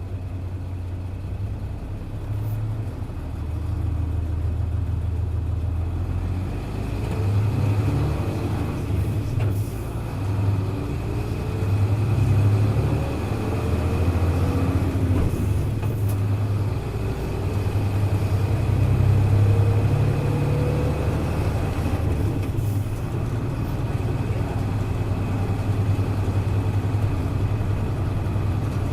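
Hino Blue Ribbon KC-HU2MMCA city bus's diesel engine heard from inside the cabin, running under load, with a low hum that swells several times and a whine rising in pitch again and again as the bus gathers speed.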